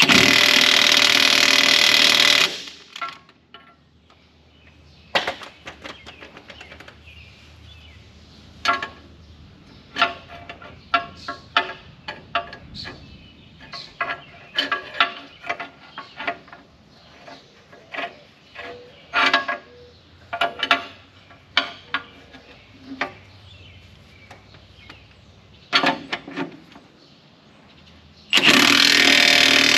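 Impact wrench hammering bolts tight in two bursts of about two and a half seconds, one at the start and one near the end, with scattered metal clinks and knocks of tools on the bracket and bolts in between.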